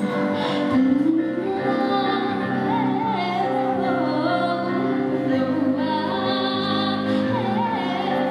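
A female solo voice singing long, wavering held notes over instrumental accompaniment.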